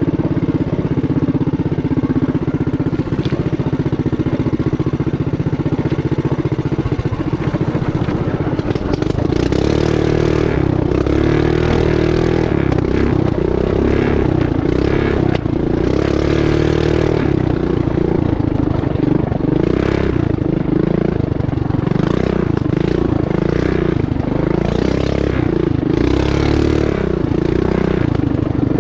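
Small single-cylinder engine of a pull-start mini bike running under load. It holds fairly steady at first, then from about eight seconds in it revs up and down again and again, with clattering and rattling over the rough track.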